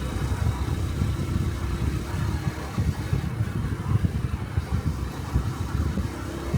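Small single-cylinder motorcycle engine of a Honda Cub 125 running steadily while riding, a dense low thrumming that keeps an even level.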